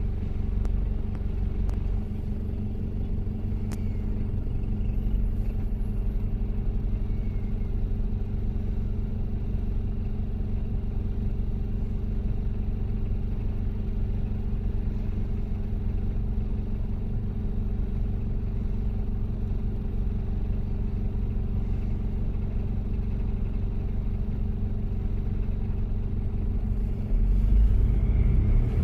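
1993 Toyota Prado's diesel engine running steadily as it is driven, with a low rumble that grows louder near the end.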